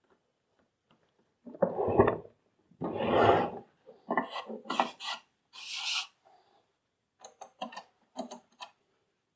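Parts of a vacuum cleaner being handled as it is reassembled: several short scraping rubs, then a run of light clicks near the end.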